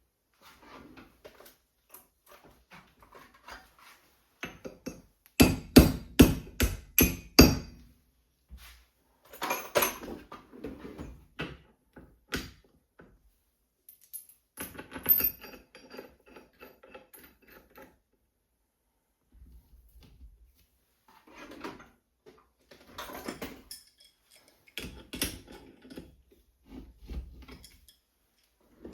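Metal parts and hand tools clinking and knocking while a steering wheel is assembled onto a machined part. About five seconds in come about eight sharp taps in quick succession, and they are the loudest sound.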